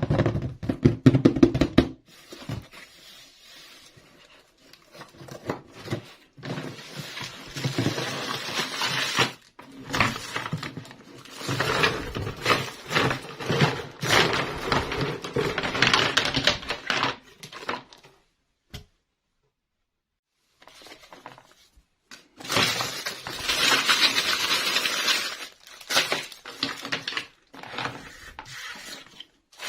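Hands unboxing and handling small plastic toy pieces: packaging rustling and crinkling, with many light plastic clicks and taps. There is a pause of about two seconds roughly two-thirds of the way through.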